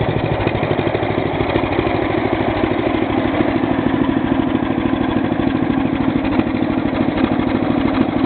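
1944 John Deere Model LA tractor's small two-cylinder engine running steadily, its exhaust beat coming as a fast, even train of firing pulses.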